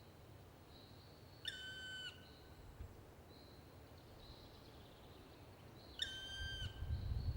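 Black woodpecker giving two long, plaintive single-note calls about four and a half seconds apart, each held steady for about half a second. A low rumble builds near the end.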